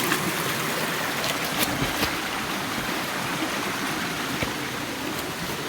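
River water flowing steadily, with a few short sharp clicks over it.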